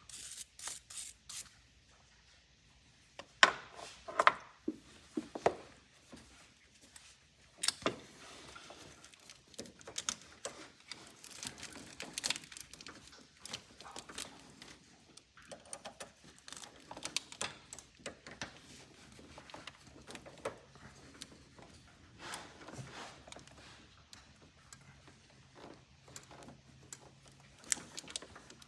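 Irregular metal clinks, knocks and short scrapes of hand tools and small metal parts being handled, with the loudest knocks a few seconds in.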